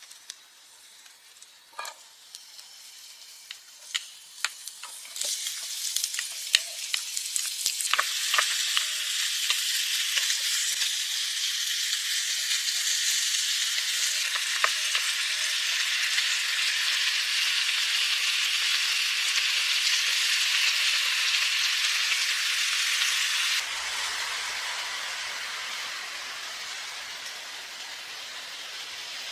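Food frying in hot oil in a pan: a few clicks, then a sizzle with scattered pops that builds over several seconds and holds steady. About three-quarters of the way through, the sound changes suddenly to a softer hiss with a low rumble.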